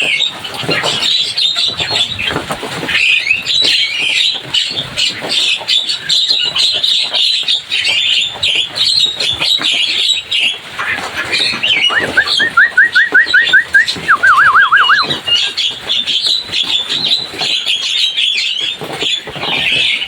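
Javan myna (jalak kebo) chattering and squawking loudly and without a break. About twelve seconds in, a run of quick, evenly repeated whistled notes, then a short warbling trill.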